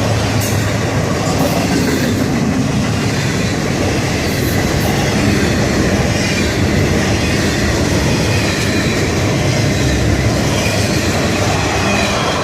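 A freight train's cars rolling past at speed close by: a steady, loud rumble of steel wheels on rail with clicking over the rail joints.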